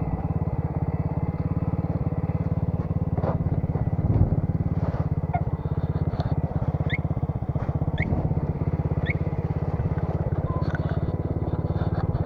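Alpha motorcycle's small single-cylinder four-stroke engine running steadily at a constant speed, with a few faint high chirps over it in the middle.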